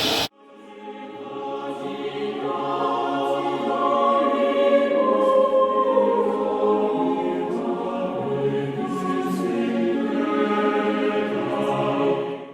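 Opening theme music: a choir singing unaccompanied, fading in just after a sudden cut from a roaring noise and stopping abruptly at the end.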